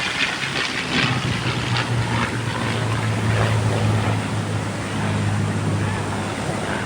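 A steady low engine drone that comes in about a second in and eases off near the end, over wind and surf noise on the microphone.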